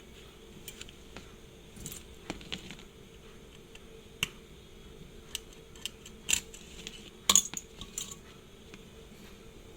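Small metal watchmaker's tools and watch parts clicking and clinking on a work surface: scattered light taps and clinks at irregular intervals, the loudest cluster about seven seconds in.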